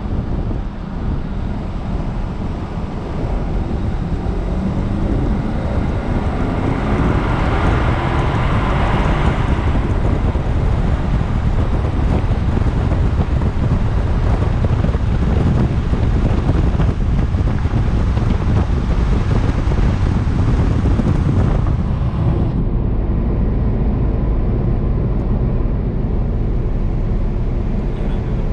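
Porsche Cayenne Turbo S twin-turbo V8 accelerating hard, its engine note climbing in pitch over several seconds. It then settles into a steady loud rush of engine, road and wind noise at speed.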